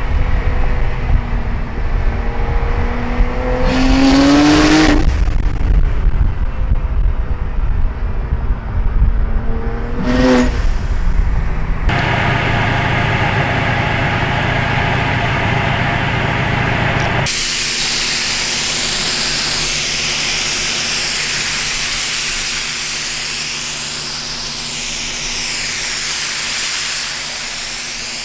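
Turbocharged car engine revving up twice, each climb ending in a loud whooshing hiss of turbo air venting. After that comes a long steady loud hiss over a low hum.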